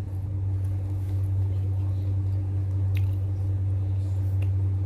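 Close, wet chewing of sticky, sauce-coated fried chicken, with a couple of small clicks about three and four and a half seconds in, over a steady low hum.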